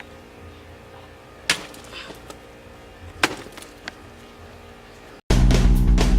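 Hardened rubber mallet striking a watermelon twice, sharp hits about two seconds apart with a fainter knock after the second. Near the end, loud guitar rock music cuts in abruptly.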